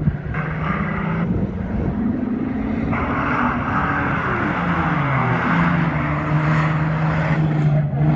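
Several mini-truck race engines running at speed in a pack, their engine notes dipping and rising as trucks pass, with a louder, harsher spell of engine noise through the middle.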